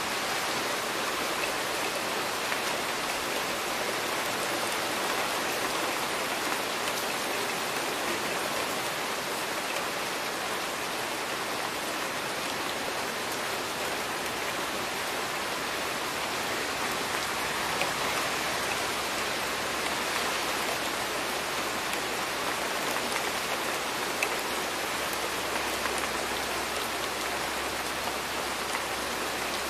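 Steady rain: an even hiss of drops falling on a hard surface, with the odd sharper single drop ticking through.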